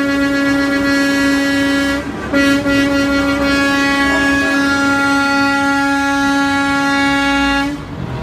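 Semi truck air horns blaring in long held blasts, a chord of several steady tones like a train horn, with a short break about two seconds in and another near the end.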